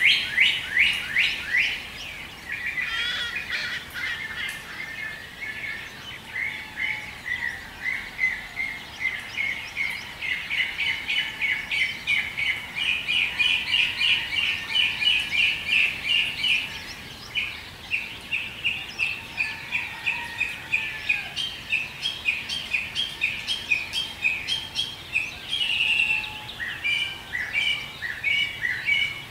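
Birds chirping in a dawn chorus: a fast, unbroken run of short repeated chirps, several a second, with fainter calls of other birds beneath.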